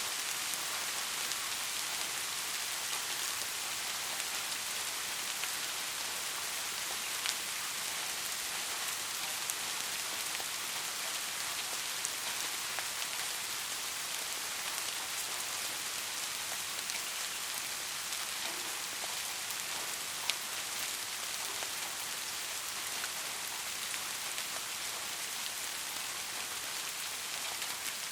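Heavy rain falling steadily, a dense even hiss with now and then a single louder drop striking close by.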